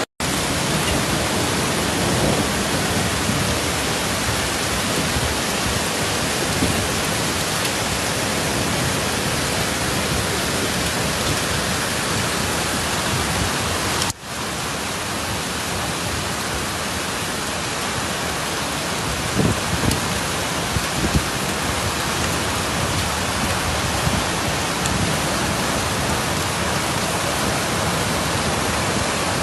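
Loud, steady rushing of flash-flood water, an even wash of noise with no pitch, broken off briefly once about halfway through.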